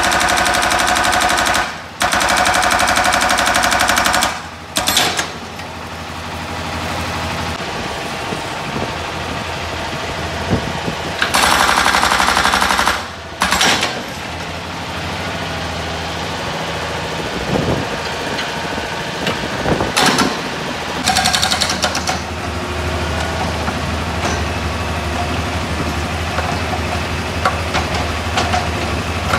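Hydraulic breaker on a Kubota U50-5S mini excavator hammering an old engine block in bursts of rapid blows: two long bursts at the start, another of about two seconds near the middle, and short ones later. Between the bursts the excavator's diesel engine runs steadily, with scattered knocks of metal.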